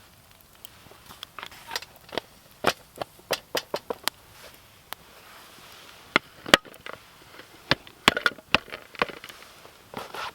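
Wood knocking and snapping: a series of irregular sharp wooden clacks, in two main bunches, typical of firewood being handled or broken at a campfire.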